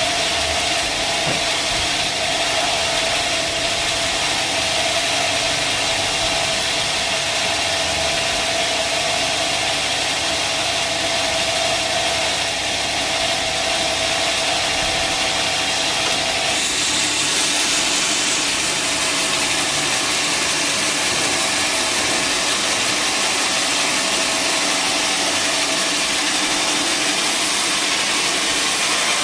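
Sawmill machinery running steadily, a loud engine-like drone with hiss over it; about sixteen seconds in, a steady mid-pitched tone in it stops and the sound shifts.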